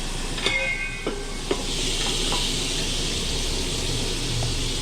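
Sous-vide chicken searing in hot fat in a pan, a steady sizzle. A metal utensil clanks against the pan about half a second in, with a couple of light knocks after, and the sizzle grows louder about two seconds in.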